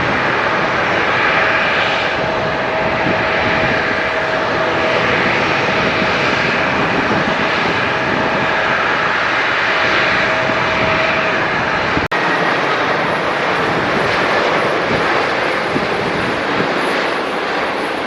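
Jet airliner engines running loud and steady, a dense rushing noise with a steady whine over it. About two-thirds through the sound breaks off for an instant and picks up again without the whine.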